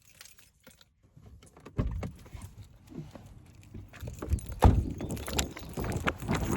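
Clicks, rustles and thumps of a person hurrying out of a car with keys jangling. They start after a quiet second or two and grow louder, with one heavy thump near the middle.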